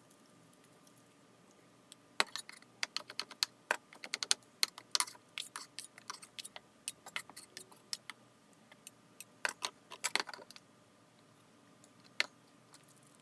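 Spatula clicking and tapping as it mashes bananas by hand: a quick, irregular run of sharp clicks starting about two seconds in and stopping about ten seconds in, with one last click near the end.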